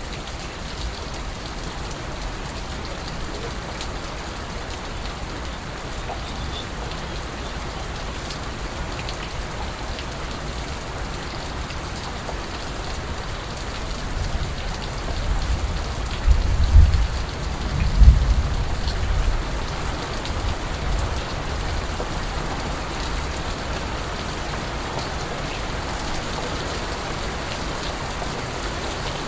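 Steady rain falling, with water drips. About halfway through, a low rumble swells for several seconds and then fades back into the rain.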